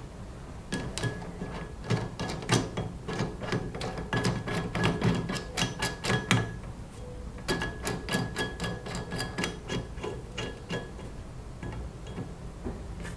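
Irregular metallic clicks and taps, dense in two runs with a short lull between, some with a faint high ring: steel parts and tools knocking together at the bench.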